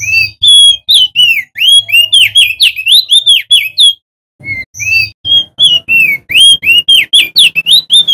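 A male opior jambul (crested white-eye) singing loudly: rapid runs of clear whistled notes that slide up and down, several a second, broken by a short pause about halfway through.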